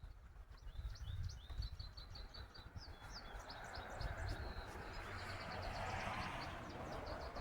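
Songbird chirping in quick series of short high notes, over low wind rumble on the microphone; a steady hiss builds up from about four seconds in.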